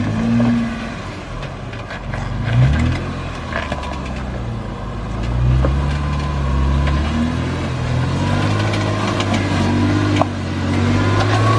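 An off-road 4x4's engine running at low speed, its pitch rising and falling as it is throttled up and down, with scattered knocks and clicks over the engine.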